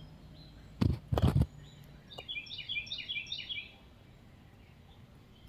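A couple of knocks about a second in, then a bird chirps a quick run of short falling notes for about a second and a half.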